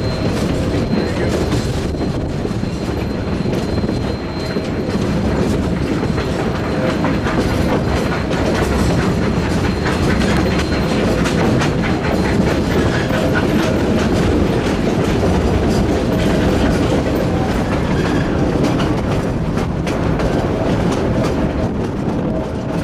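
Cars of the Cumbres & Toltec narrow-gauge train rolling along the track: a steady rumble with wheels clicking over the rail joints. A thin high squeal runs through the first half.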